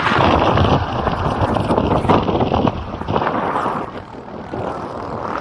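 Wind buffeting a body-worn camera's microphone, mixed with engine and road noise from a moving vehicle at speed, easing briefly about four seconds in.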